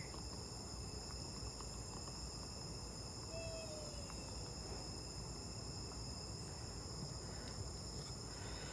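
Night insects, crickets among them, in a steady high-pitched chorus.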